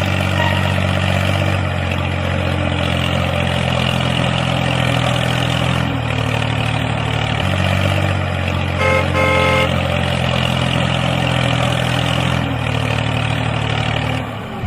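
Small engine of a homemade mini vehicle running steadily, its pitch stepping down and back up a few times as the speed changes. About nine seconds in, a horn gives a few short beeps.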